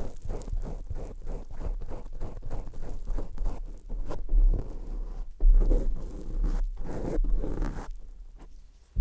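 ASMR trigger sounds made right on the microphone: a rapid, irregular run of crackly clicks and rubbing with low thumps, fading away near the end.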